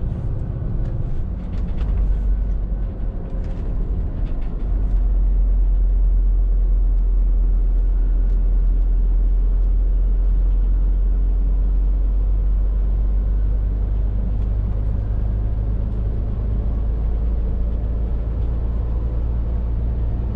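Scania R450 lorry's diesel engine and road noise while driving, a steady low drone that grows louder about five seconds in. Scattered faint clicks and rattles come in the first few seconds.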